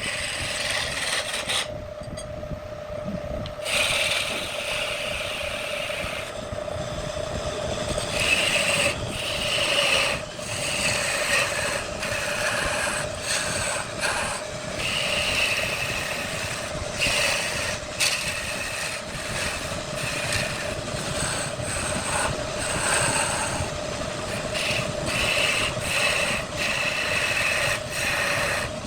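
Wood lathe motor running with a steady hum while a tool scrapes against the spinning wood in repeated passes.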